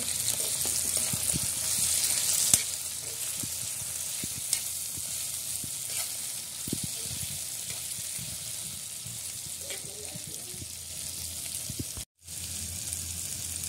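Potato, cauliflower and tomato pieces sizzling in oil in a pan over low heat: a steady hiss, with a spatula stirring and scraping the pan now and then. The sound drops out for a moment about twelve seconds in.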